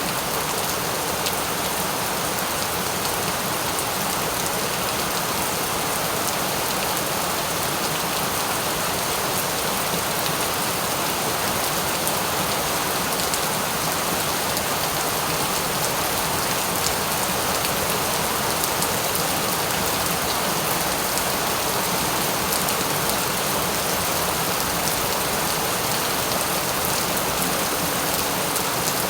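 Steady rain falling and pattering on a surface, with a dense even hiss and scattered individual drop ticks.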